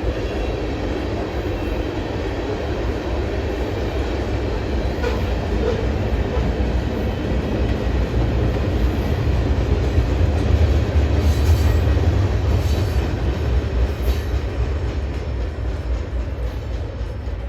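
Slow-moving train passing, a steady low rumble of wheels on rails that grows louder toward the middle and eases off near the end.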